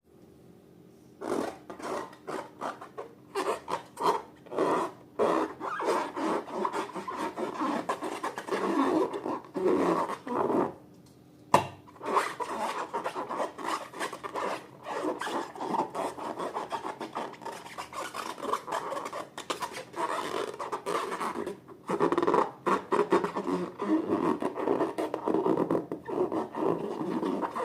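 Slime being mixed and squished, a dense run of irregular crackling, squelching rubs with a short pause about eleven seconds in, ended by a sharp click.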